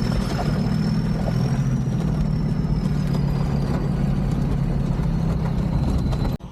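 Land Rover Discovery 2's Td5 five-cylinder turbodiesel running steadily, with a thin high whine over it that drifts slowly lower. The sound cuts off abruptly just before the end.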